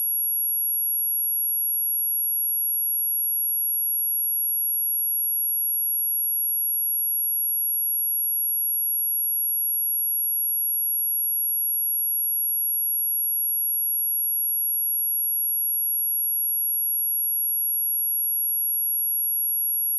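A steady, unbroken 11312 Hz sine-wave test tone: a single high-pitched whistle at constant pitch and level, played to test or clear a speaker.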